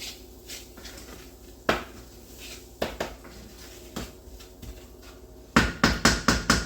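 A kitchen utensil knocking against a skillet while brown sugar is broken up in the pan. There are a few single knocks, then from near the end a quick run of louder knocks, about five a second.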